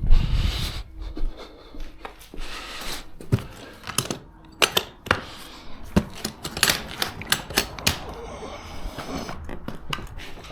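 A run of sharp, irregular clicks and taps, clustered mostly from about three to eight seconds in.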